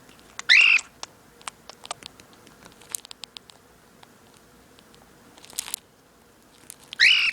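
Cockatiel growling twice, two harsh rasping calls of about half a second each, one near the start and one near the end, with scattered light clicks and taps in between.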